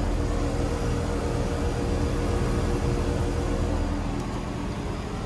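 Central air-conditioner outdoor condensing unit running: a steady rush of condenser-fan air over a low hum with several steady tones.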